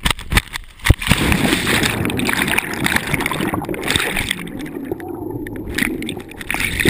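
Water sloshing and gurgling in a steady rush, with a few sharp knocks in the first second.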